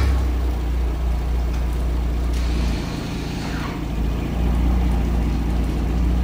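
A car engine running with a steady low rumble, with a short falling whine about three and a half seconds in.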